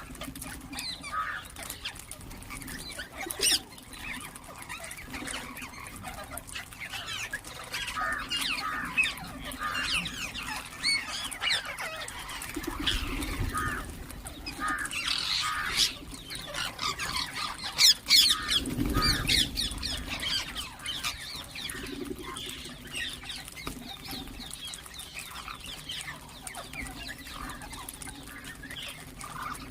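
Ringneck parrots chirping and squawking in a steady run of short, high calls, with a few loud, sharp squawks. Two low rumbles come through around the middle.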